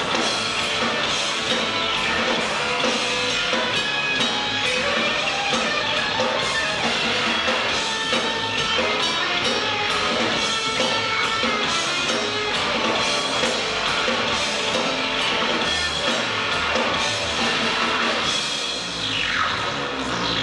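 Live noise-rock band playing: distorted electric guitar over a pounding drum kit. Near the end, falling guitar effects sweep down in pitch.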